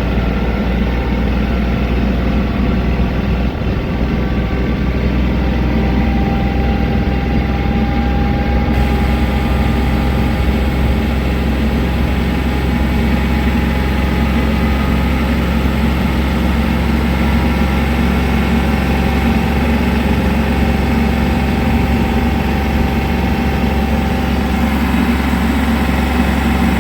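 Diesel tractor engine running steadily at raised RPM during an exhaust regeneration, the engine held at speed so the exhaust gets hot enough to burn itself clean.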